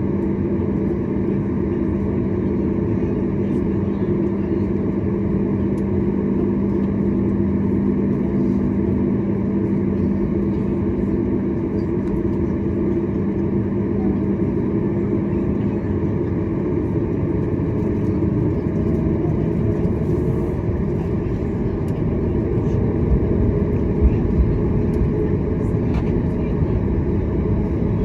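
Boeing 737 MAX 8 cabin noise: a steady drone of engines and airflow. A humming tone in it stops about halfway through, and the low rumble grows heavier near the end.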